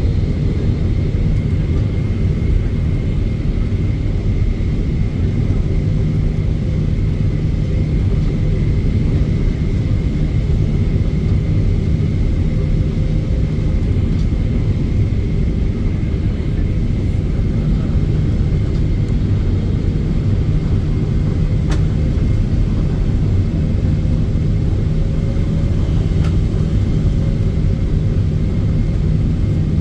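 Steady cabin noise inside a Boeing 777-300ER, powered by GE90-115B engines: a deep, even rumble with a faint steady whine above it. A single faint click about three-quarters of the way through.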